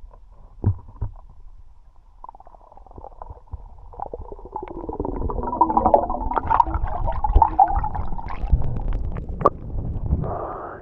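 Underwater sound picked up through an action camera's housing: a muffled low rumble of moving water and gurgling bubbles, with many small clicks and knocks. It swells from about four seconds in.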